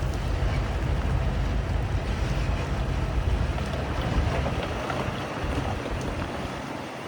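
Heavy diesel earthmoving machinery running with a steady low rumble, mixed with a rushing noise; the rumble weakens over the last couple of seconds.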